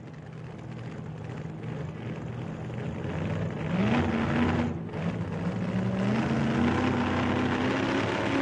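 Car engine accelerating, its pitch climbing and growing louder, with a brief break about halfway through before it climbs again.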